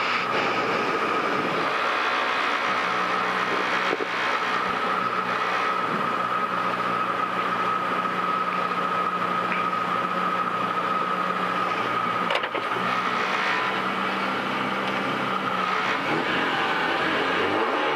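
Peugeot 106 rally car's four-cylinder engine running at steady revs, heard from inside the cabin, with one sharp click about twelve seconds in; near the end the revs start to climb as the car launches off the start line.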